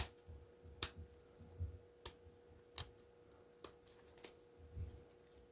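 Scattered faint clicks and snaps, with a few soft knocks, as plastic insulation layers are pried and peeled off a copper wire core by hand. A faint steady hum runs underneath.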